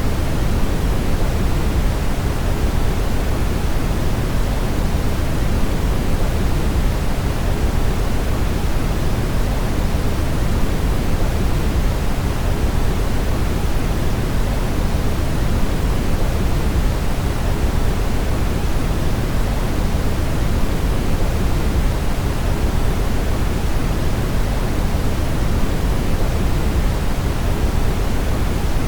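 Steady brown noise: an even, unchanging hiss weighted toward the low end, deep and rumbling with much less treble.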